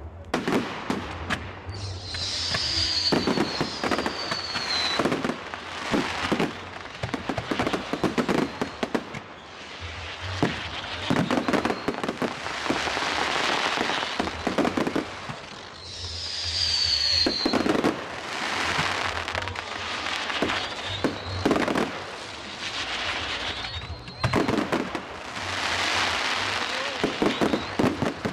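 Fireworks display: a rapid run of bangs and crackling from aerial fireworks, with whistling fireworks falling in pitch a couple of seconds in and again about halfway through.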